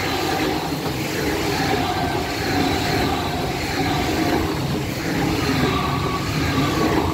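Passenger train passing at speed close by: a steady loud rush of wheels on rail, with some thin steady whining tones over it.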